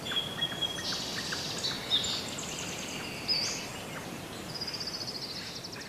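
Several birds singing over a faint hiss: short chirps, whistled notes and trills, with a rapid high trill about three-quarters of the way through.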